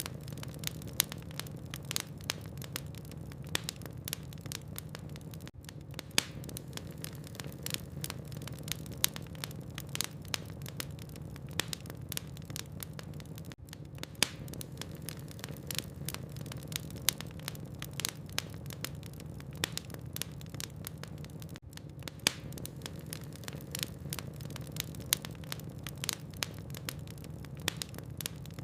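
Wood logs burning in a fireplace, crackling with frequent sharp, irregular pops over a steady low rumble.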